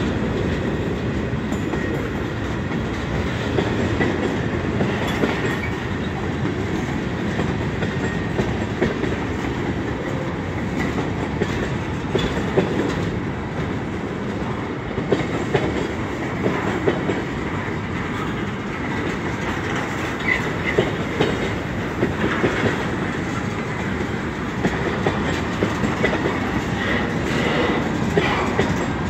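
Freight train's tank cars and boxcars rolling past a grade crossing, a continuous rumble of steel wheels on rail with irregular clacks as the wheels cross rail joints.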